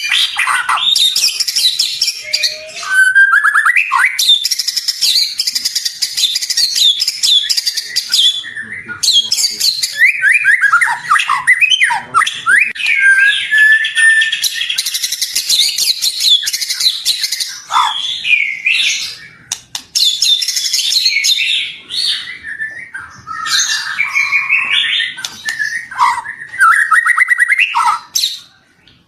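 White-rumped shama (murai batu) singing loudly: a long, varied song of rapid trills, whistled glides and chatter with hardly a pause, breaking off briefly near the end.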